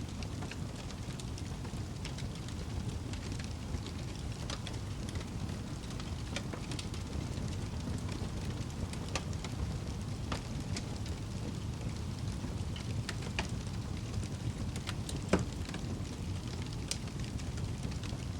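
Fire burning in a fireplace: a steady low rumble of flames with scattered crackles and pops, one sharper pop late on.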